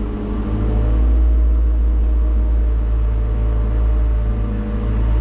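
Hyundai HX140AL excavator's diesel engine running steadily with a deep rumble, heard from inside the cab, getting a little louder about a second in.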